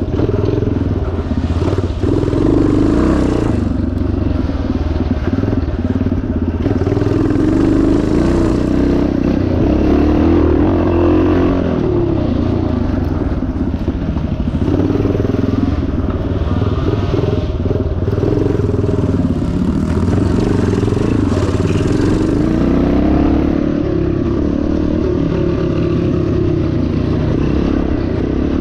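1977 Yamaha TT500's single-cylinder four-stroke engine running hard, its revs rising and falling again and again with the throttle.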